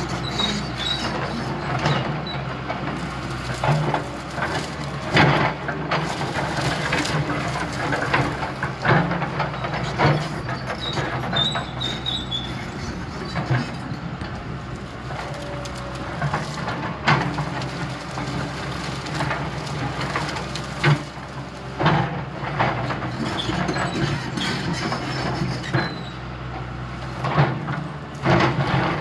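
Heavy diesel earthmoving machine working: a steady engine note under frequent, irregular metallic clanks and knocks, every second or two.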